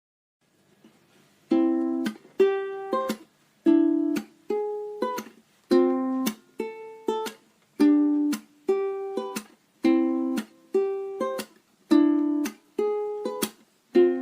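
Background music: a ukulele strumming chords in a steady, repeating rhythm, the instrumental intro before the singing. It starts about a second and a half in.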